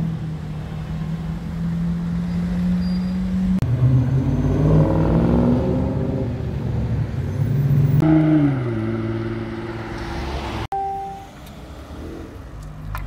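Sports car engines heard across several edits. First a steady engine note, then, after a cut, an engine revving up louder as a car accelerates. Its pitch then falls as it passes, and after a sudden cut a quieter engine runs as a car pulls away.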